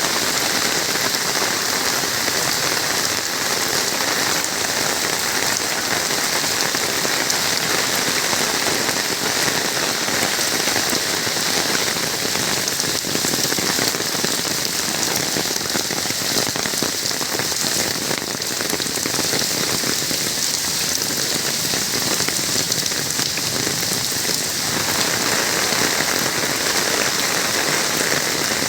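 Steady heavy rain falling on surfaces, an even, unbroken downpour.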